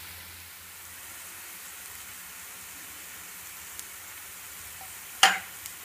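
Sliced onions, green chillies and curry leaves sizzling steadily in oil in a non-stick frying pan. A single sharp knock about five seconds in.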